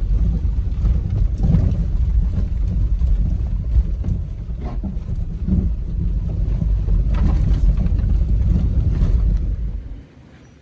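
Vehicle on a trail: a loud, steady low rumble with heavy wind buffeting the microphone and a few scattered knocks. It cuts off suddenly near the end.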